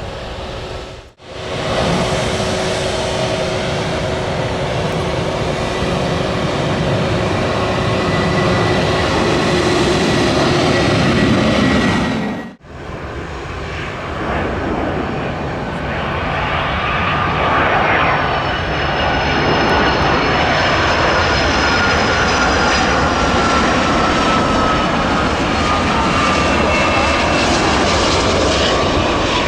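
Boeing 757-200 jet airliner arriving to land, its engines running with a loud, steady roar of jet noise. In the second half a whine slowly falls in pitch. The sound drops out briefly twice, about a second in and again near thirteen seconds.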